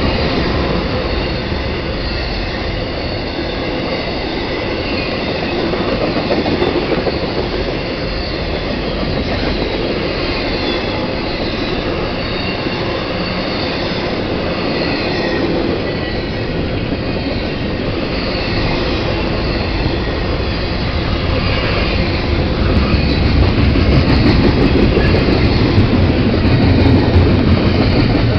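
Freight cars of an intermodal train (double-stack container well cars and trailer-carrying spine cars) rolling past: a steady rumble of steel wheels on rail with a faint high wheel squeal, growing a little louder near the end.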